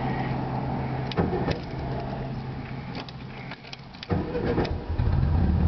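1973 Volkswagen Super Beetle's rebuilt 1600cc air-cooled flat-four cold-starting without the gas pedal pumped. A few clicks come over a steady low hum, then about four seconds in the engine catches at once and runs with a loud low rumble.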